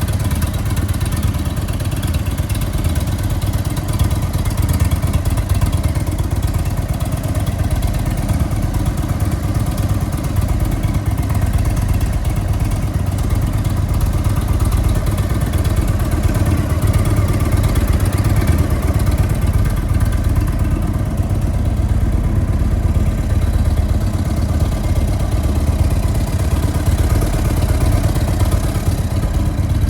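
2017 Indian Springfield's Thunder Stroke 111 V-twin idling steadily through an Indian performance exhaust.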